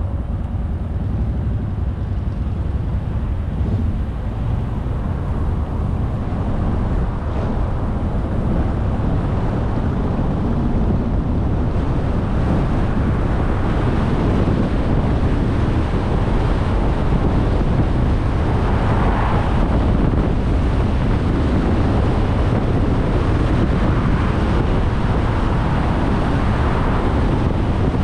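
A car driving along a road: a steady rush of tyre and wind noise with a strong low rumble, growing gradually louder through the first half.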